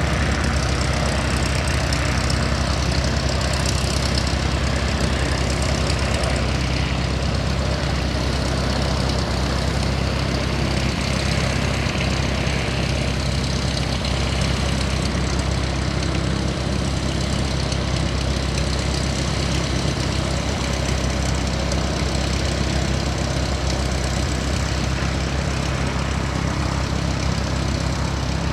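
Aircraft engine running steadily at idle: a low, even drone with no rise or fall.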